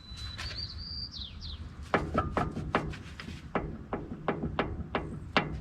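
Universal joint on a Chevy P30 driveshaft clicking as the loose yoke is rocked back and forth by hand, a string of short light metal clicks about three a second: a little slop in the joint, which the owner suspects is wear.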